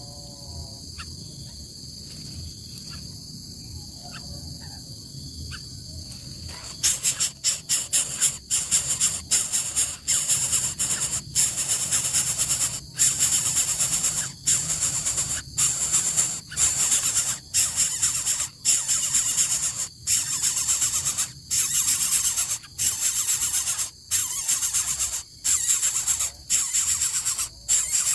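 Nestling birds begging, a loud, harsh, high-pitched hissing that starts about seven seconds in and comes in rapid repeated spells with short breaks. Before that, only a steady high whine.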